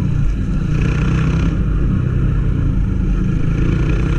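Honda CG 160 Titan motorcycle being ridden, its single-cylinder engine running steadily under a heavy, constant low rumble.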